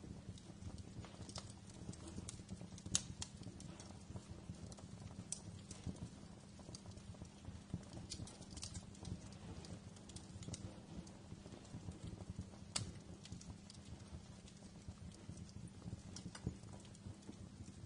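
Wood fire crackling in a fireplace: irregular sharp pops and snaps over a steady low rumble of the flames, with louder pops about 3 seconds in and near 13 seconds.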